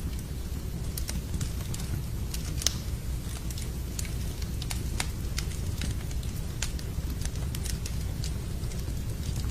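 Wood fire in a fireplace crackling, with irregular sharp pops and snaps, the loudest about two and a half seconds in, over a steady low rumble.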